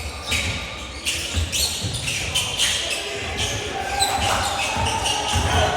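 Basketball game play on a gym floor: the ball being dribbled with repeated thuds, and players' shoes shuffling on the court.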